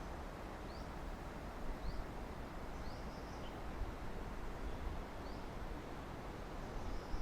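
Small birds chirping faintly: short, high, upward chirps about once a second, over steady outdoor background noise.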